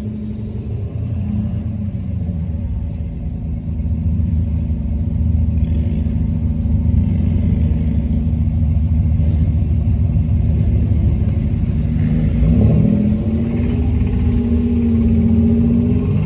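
1993 Toyota engine running with a heavy rhythmic rod knock, getting louder a few seconds in and revving briefly near the end. A bystander takes the knock for a wrist pin come out of a connecting rod.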